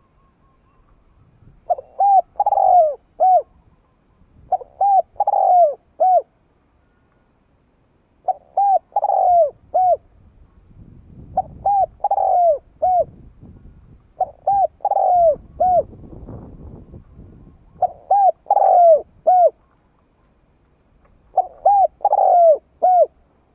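Spotted dove cooing: seven phrases of about four short arching coos each, repeated roughly every three seconds, the kind of call used as a lure for trapping doves.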